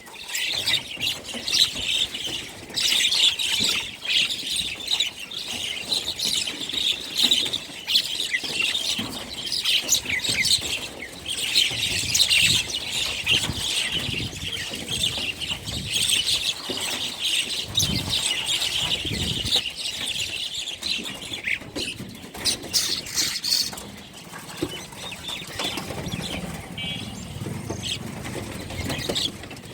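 Many small birds chirping and chattering together without pause, with wing flapping among the calls.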